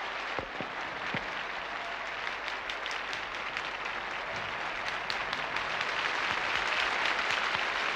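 Concert audience applauding a conductor and orchestra, a dense steady clapping that swells slightly toward the end.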